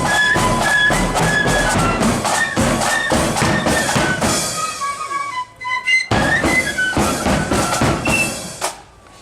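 A marching flute band playing a tune on flutes over drums. It drops out briefly about five and a half seconds in, comes back in with a drum hit, and stops near the end.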